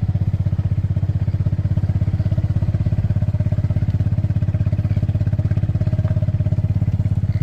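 Small vehicle engine running steadily, with an even, rapid pulse.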